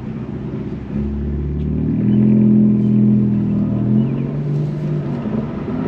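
Car engine running at low, steady revs, a deep hum that swells slightly about two seconds in.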